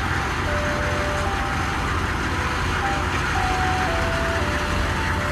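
Ice cream truck's jingle playing: a simple tune of plain electronic notes over a steady low rumble.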